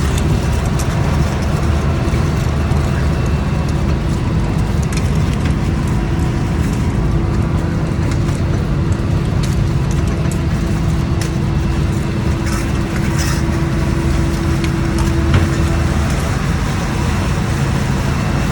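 Scallop fishing boat's engine running steadily, a loud low drone. A steady higher hum sounds over it for several seconds in the middle.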